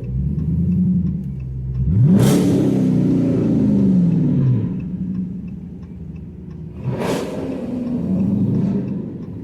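Car engine revving: a sharp rev about two seconds in that rises and then falls away, and another rev around seven seconds in.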